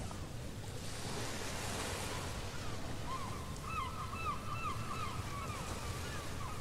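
Steady ocean surf noise. About three seconds in comes a run of quick, repeated bird-like chirps that lasts a few seconds.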